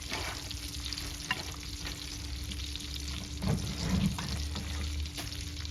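Food sizzling over a wood fire: a steady frying hiss with scattered sharp crackles.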